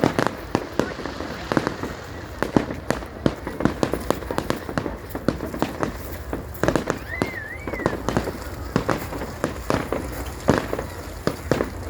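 Fireworks going off all around: a rapid, irregular string of bangs and crackling pops, with a short wavering whistle about seven seconds in.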